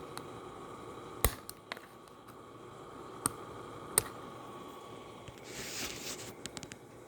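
Small sharp plastic clicks from prying at a laptop keycap and its retainer clip: four louder snaps in the first four seconds, then a brief scraping rustle about five and a half seconds in, followed by a few lighter ticks.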